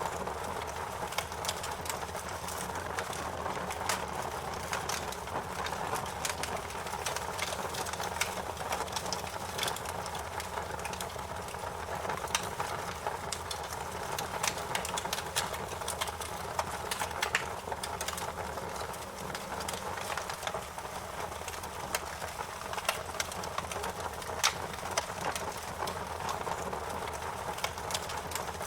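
Wood fire crackling, with irregular sharp pops and snaps over a steady hiss of burning.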